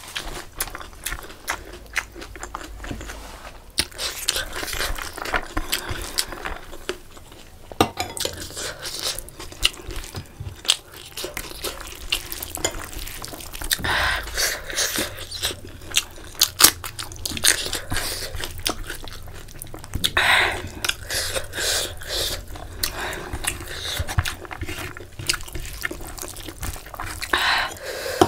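Close-miked eating sounds: chewing and wet mouth noises from a mouthful of chicken curry and rice, with many small sharp clicks and smacks and the squelch of fingers mixing rice into curry gravy.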